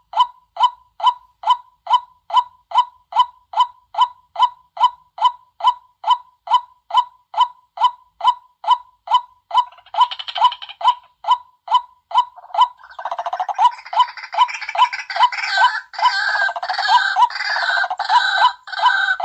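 White-breasted waterhen lure call: a short, even note repeated about three times a second without a break. About ten seconds in, and again from about thirteen seconds, a harsher, busier chorus of calls is layered over it.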